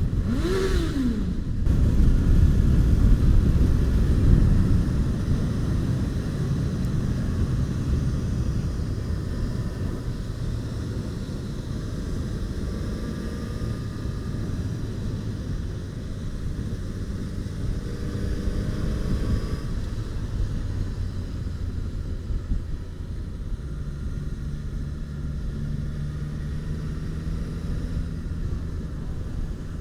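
Motorcycle engine and wind rush heard from the rider's helmet mic while riding, loudest a couple of seconds in as the bike is revved through a stretch of road. The engine note climbs again a little past halfway.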